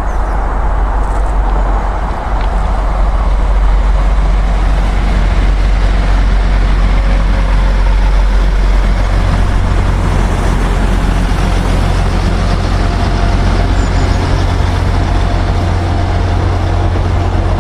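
Class 175 diesel multiple unit standing at the platform with its diesel engines running, a steady low drone that grows stronger about halfway through as the train readies to depart.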